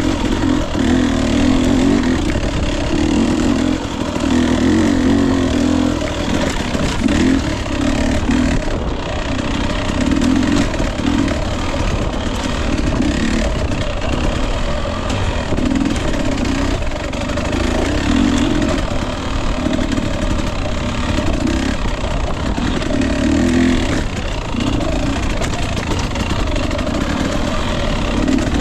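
Husqvarna TE 250i two-stroke fuel-injected dirt bike engine running on the trail, its throttle opened and eased off every second or two.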